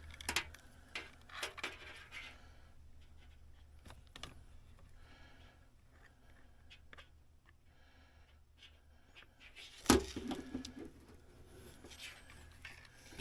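Quiet hands-on handling of small parts and tools: scattered faint clicks and rubs, with one sharp knock about ten seconds in.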